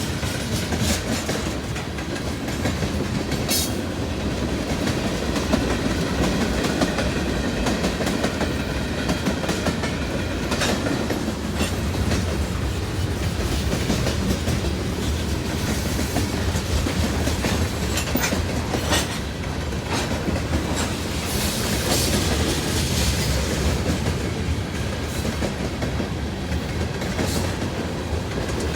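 Long Norfolk Southern freight train rolling past close by: a steady rumble of the cars with wheels clicking over rail joints throughout.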